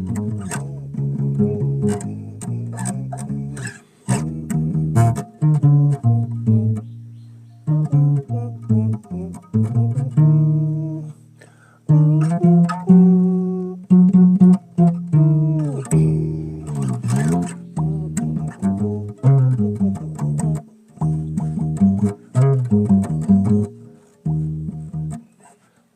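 Solo bass played live: plucked notes that ring and fade, in short phrases with brief gaps, with a sliding bend in pitch about two thirds of the way through.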